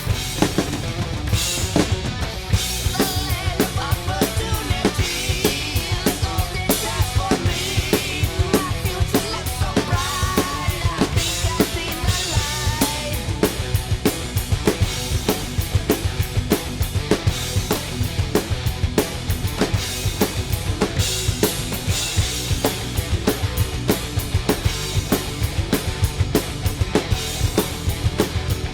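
Drum kit played along to a heavy metal recording: fast, steady bass drum and snare hits over the band's distorted guitars.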